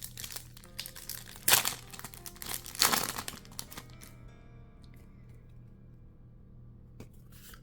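Foil booster pack wrapper crinkling as it is handled and torn open, with two loud rips about a second and a half and three seconds in, then going quiet after about four seconds apart from a single click near the end.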